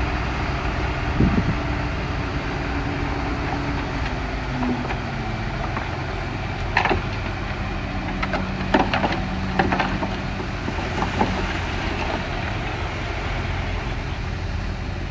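Komatsu bulldozer's diesel engine running steadily under work, with a handful of short sharp knocks through the middle.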